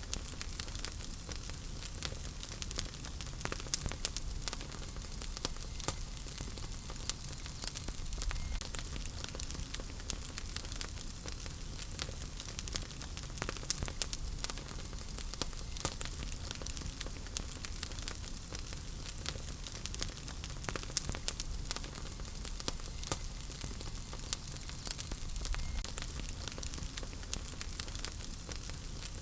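Wood fire in a fireplace crackling: frequent irregular pops and snaps over a steady low rumble of the flames.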